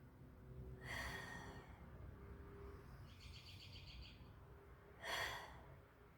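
Two short, whistly breaths through the nose, one about a second in and a louder one about five seconds in. Between them a bird gives a quick high trill, over a low outdoor rumble.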